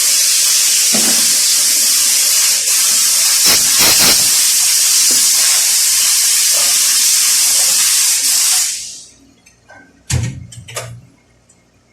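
Loud, steady hiss of a pressurised jet, such as is used to blow clean transmission parts, cutting off about nine seconds in. A couple of knocks and clinks of metal parts follow near the end.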